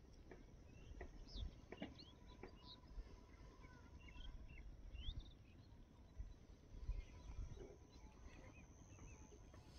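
Faint outdoor quiet with scattered short bird chirps, most of them in the first half.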